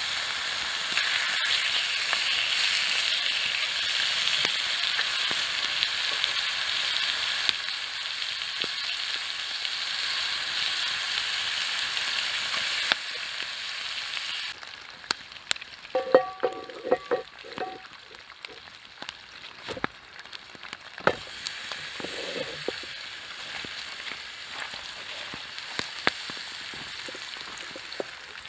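Bacon sizzling loudly in a frying pan over a campfire, a steady dense sizzle. About halfway through it drops to a quieter sizzle of meat frying, with scattered clicks and scrapes of a fork or knife on the pan.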